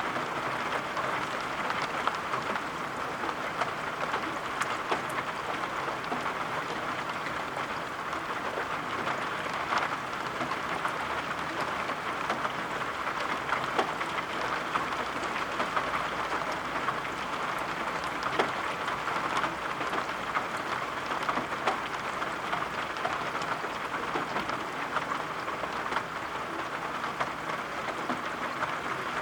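Steady rain falling, an even hiss with scattered small drop taps throughout.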